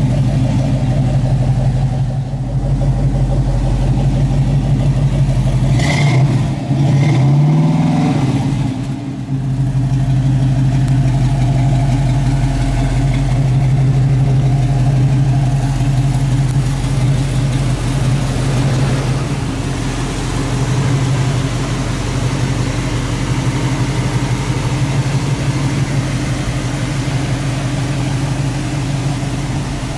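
1972 Chevelle SS's 350 V8 idling steadily, revved up once briefly about a fifth of the way in and settling back to idle.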